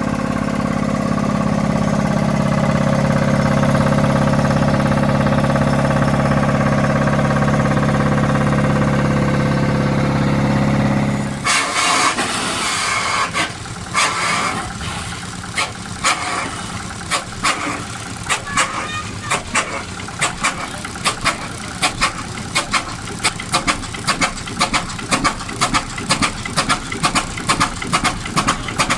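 A large old engine running steadily at a deep, even pitch, which stops abruptly about eleven seconds in. Another big old engine then starts: a few irregular knocks and hisses, then separate sharp exhaust beats that come faster as it picks up speed.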